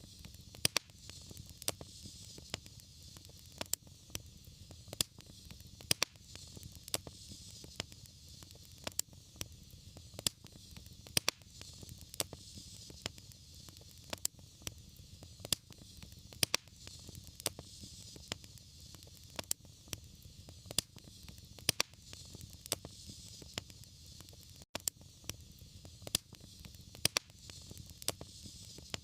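Wood fire crackling, with sharp pops coming irregularly over a low steady hiss and rumble of the flames.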